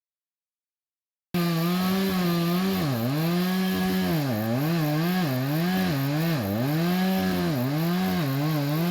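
Two-stroke chainsaw cutting pine logs. It cuts in after about a second of silence and runs at high revs, with its pitch dipping sharply and recovering about once a second as the chain bites into the wood.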